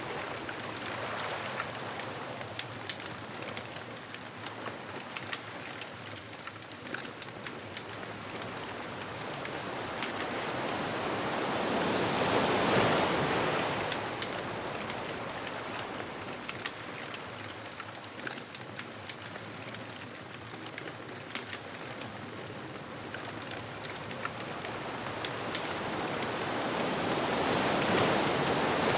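Ocean surf washing onto a beach, swelling to a peak about halfway through and again near the end, with scattered small crackles from a bonfire.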